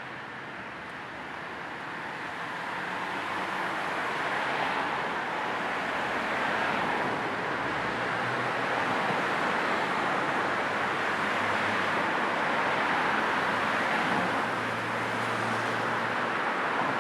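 Steady noise of a car driving, a broad hiss of tyres and air with a faint low engine hum, getting louder over the first few seconds and then holding even. A low white noise is mixed in.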